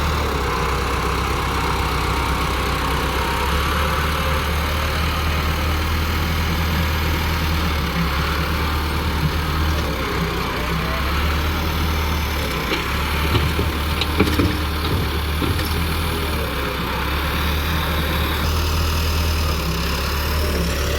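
JCB backhoe loader's diesel engine running steadily, with a few short knocks a little past halfway.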